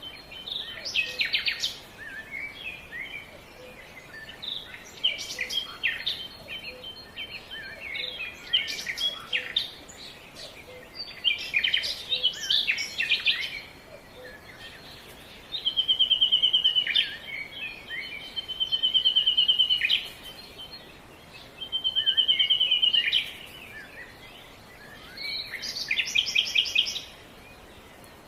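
Several songbirds singing and chirping, with a fast, even trill that repeats three times in the second half.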